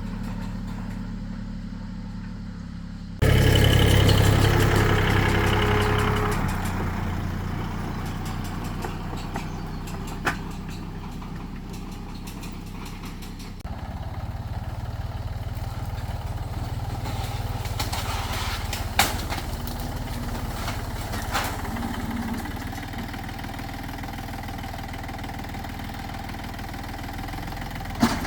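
Tractor engine running steadily, with a sudden loud surge about three seconds in that eases off over the next few seconds. A few sharp knocks come later.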